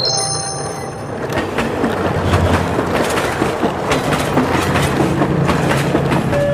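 Train running along the track: a continuous rumble with irregular clicks of wheels over the rails. A short high ringing transition effect sounds in the first second.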